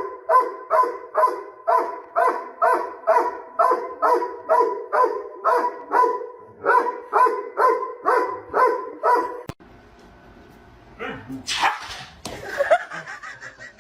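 A dog barking over and over in a very regular rhythm, about two or three barks a second, each at the same pitch. The barking cuts off abruptly about nine and a half seconds in, and quieter, mixed sounds follow.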